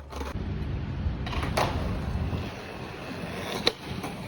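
Skateboard wheels rolling over pavement as a low rumble that eases off after about two and a half seconds, with a couple of sharp clacks from the board.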